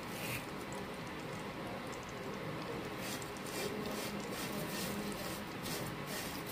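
Fine vermicelli frying in hot desi ghee in a frying pan, a steady sizzle, with a spatula stirring it through the pan from about three seconds in.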